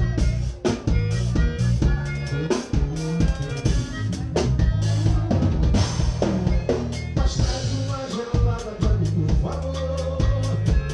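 Live forró band playing an instrumental passage through the PA: drum kit beating out a steady rhythm over a strong low bass line and sustained melodic notes.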